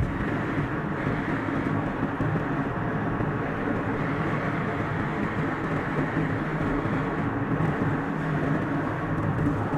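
Steady road and engine noise of a car driving on a highway, sped up to double speed.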